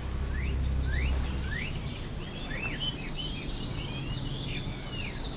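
Songbirds chirping, many short rising and arching calls overlapping one another, over a low hum that fades out about a second and a half in.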